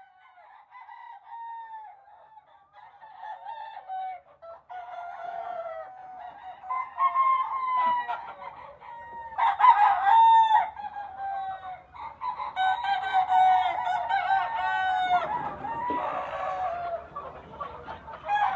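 Chickens calling, many overlapping drawn-out calls, faint at first and growing louder about halfway through.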